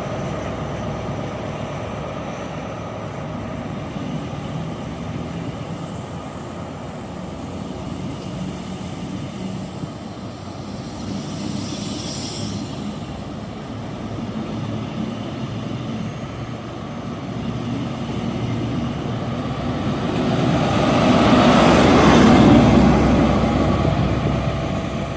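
Train engines running with a steady hum, swelling to a loud pass about twenty to twenty-three seconds in, then easing off.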